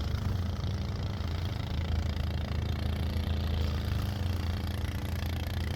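Boat engine running steadily with an even, low hum.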